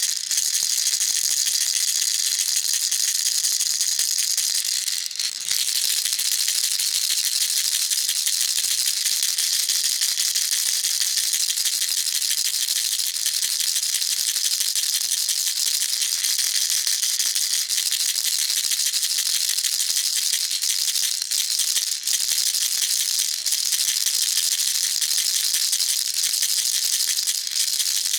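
Baby rattle shaken continuously: a dense, bright, high-pitched rattling, with a brief break about five seconds in.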